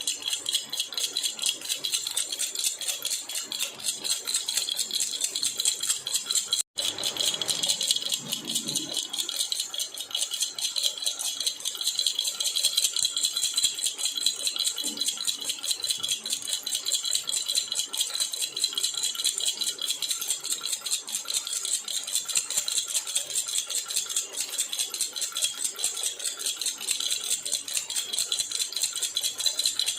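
Silver jhunjhuna baby rattle shaken continuously, a fast, dense jingling with one very short break about seven seconds in.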